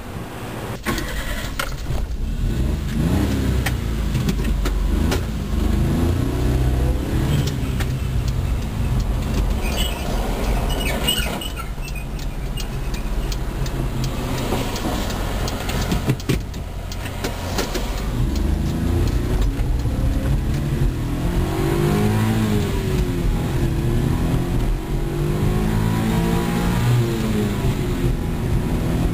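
1991 Suzuki Carry 4x4 kei truck's small three-cylinder engine under way, its pitch rising and falling again and again as it accelerates and goes through the gears, with a few knocks along the way.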